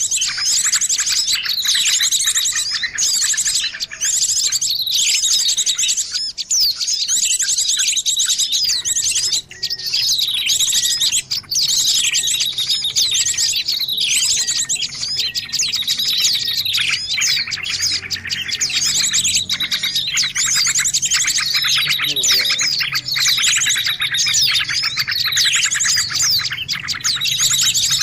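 A dense, noisy chorus of many small birds chirping and twittering at once, with fast high trills overlapping without pause. It is a mixed-species bird-lure recording, a 'suara pikat' played to draw birds in.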